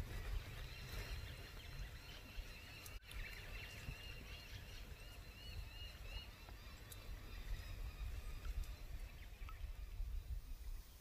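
A bird calling in a quick run of short, repeated chirps for several seconds, over a low steady rumble.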